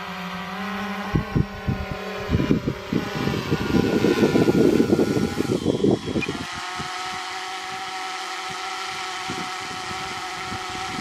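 DJI Phantom quadcopter's propellers humming steadily as it climbs, a stack of steady tones. Low rumbling buffets come and go over the first half, loudest about four to six seconds in.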